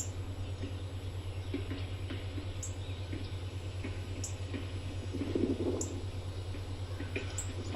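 Rain dripping: scattered irregular drops and ticks over a steady low hum, with a brief louder patch about five seconds in.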